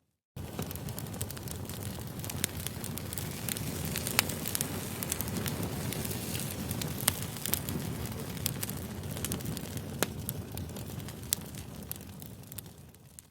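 Campfire burning: a steady low rush of flames dotted with frequent sharp pops and snaps, fading out near the end.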